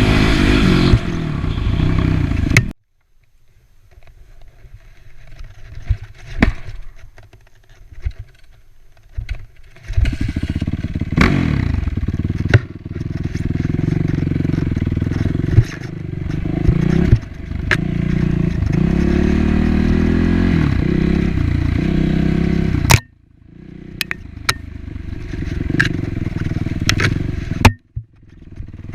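Yamaha WR450F dirt bike's single-cylinder four-stroke engine running and revving up and down. It cuts off abruptly twice, leaving quieter stretches with scattered knocks and clicks before it runs again.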